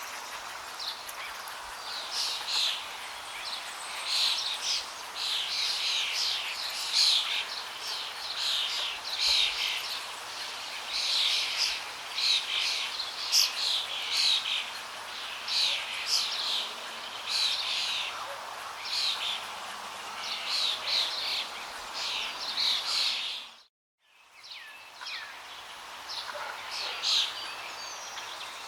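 Songbirds chirping and calling over and over above a steady rush of flowing water. Both drop out completely for a moment about three-quarters of the way through, then resume.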